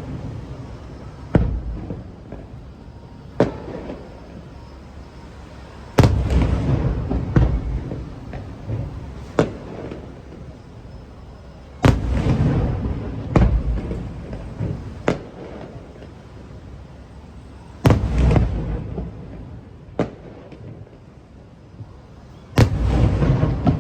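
Aerial fireworks shells bursting, about ten sharp bangs. The biggest come about every six seconds, each followed by a rumbling, echoing tail.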